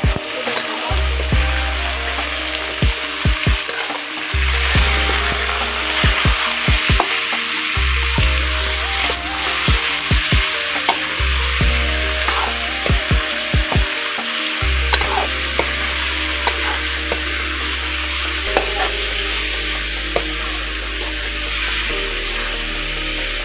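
Pork cubes sizzling as they fry in a steel kadai, stirred with a metal ladle that clinks and scrapes against the pan in short sharp ticks.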